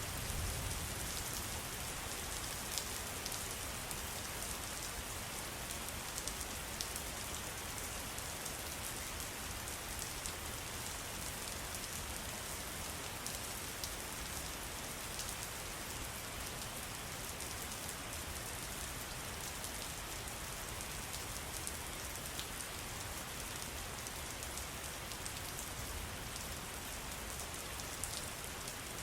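Steady water noise with many small, sharp drop splashes over a constant hiss.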